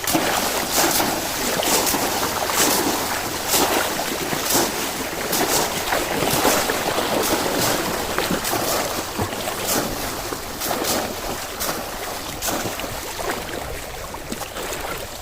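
Water splashing and churning continuously, with many sharp splashes every second or so.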